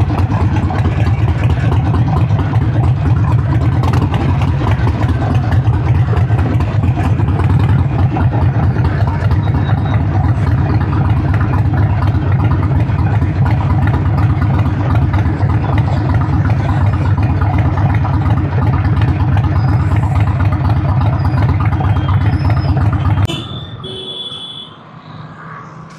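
Harley-Davidson 900 cc V-twin motorcycle engine running steadily and loud with a deep, pulsing note, cut off abruptly about 23 seconds in.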